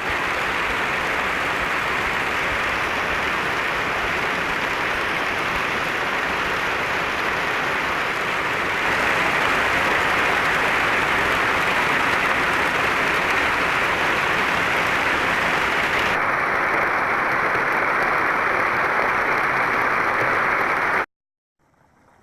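Heavy rain falling: a loud, steady hiss that cuts off suddenly about a second before the end.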